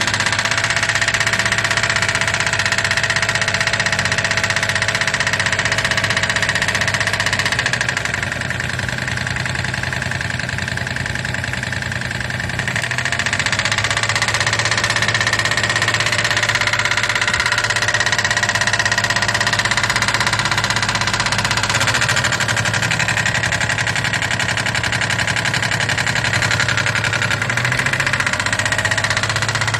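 Daihatsu KF three-cylinder engine idling with a rattling knock (piston slap): the sign of a badly worn piston pin with large play in the No. 2 piston.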